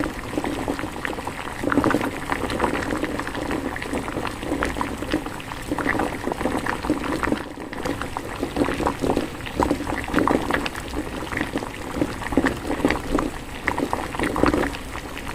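Spicy pork-bone stew (ppyeodagwi haejangguk) boiling hard in a Korean earthenware ttukbaegi pot: a continuous, irregular bubbling and popping of thick broth.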